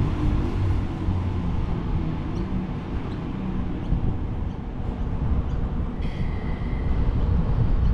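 Electric suburban train rumbling through the station, a low steady rumble whose motor hum fades in the first second or so. A brief high steady tone sounds about six seconds in.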